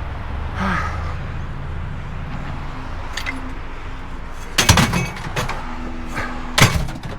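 Heavy roller units being handled and loaded: two loud clusters of knocking clunks about two seconds apart, over a steady low rumble.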